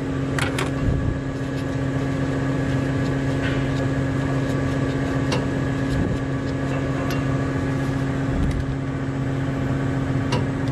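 Heavy equipment engine idling steadily, with a few light metallic clicks over it.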